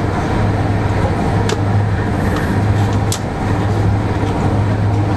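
A passenger train running at speed, heard from inside the carriage: a steady rumble with a low hum that swells and fades, and a couple of short clicks about a second and a half and three seconds in.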